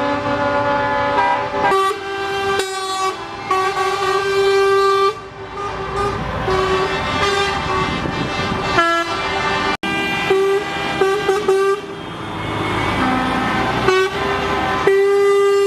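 Truck air horns honking, several horns at different pitches sounding long blasts that overlap, start and stop.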